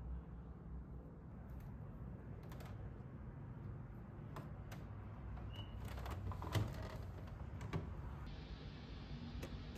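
Irregular light clicks and taps over a low steady hum, with one sharper knock about two-thirds of the way in.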